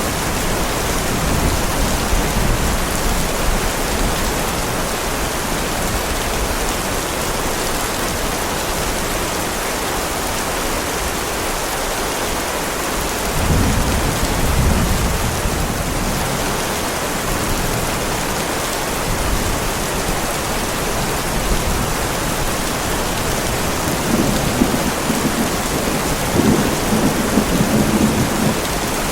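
Heavy rain falling steadily, with low rolling thunder rumbling near the start, again about halfway through, and more strongly near the end.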